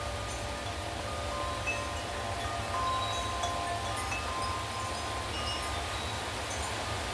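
Wind chimes struck by gusting wind, several tones ringing and overlapping as they fade, over a steady hiss of heavy rain and a low rumble of wind.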